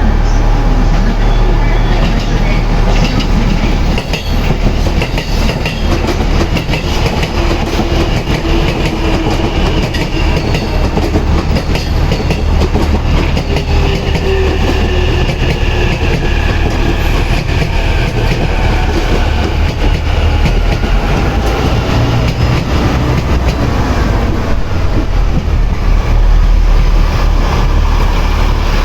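JR East KiYa E195 diesel rail-transport cars, a four-car set, pulling out under power: the diesel engines run steadily under load while the wheels click over rail joints.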